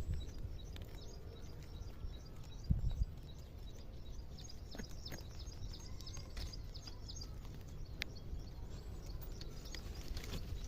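Small birds chirping, a rapid run of short high-pitched chirps that thins out after about seven seconds, over a low rumble of wind or handling noise, with a dull bump about three seconds in.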